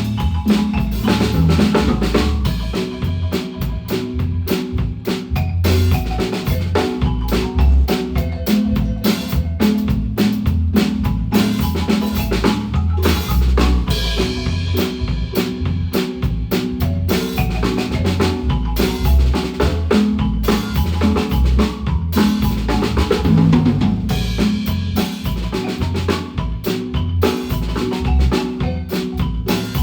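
Guatemalan marimba band playing with a drum kit: marimba lines over kick drum, snare and rimshots, with deep bass notes underneath, continuous and at full volume.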